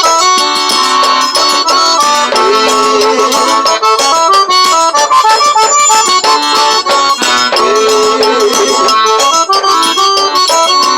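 Instrumental break of a song, led by an eight-bass button accordion (oito baixos) playing the melody, over a quick, steady percussion rhythm.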